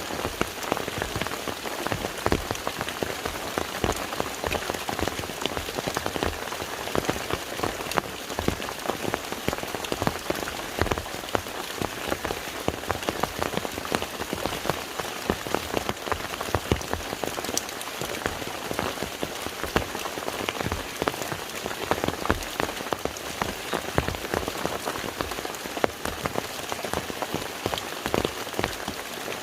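Steady rain falling onto a lake's surface: a dense patter of many drops, with frequent louder individual drop strikes standing out.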